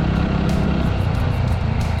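Suzuki Grasstracker's single-cylinder engine running steadily while the motorcycle is ridden.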